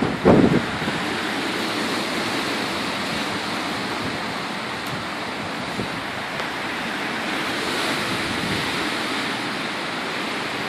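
Strong wind blowing with a steady rush, with a short low buffet of wind against the microphone right at the start.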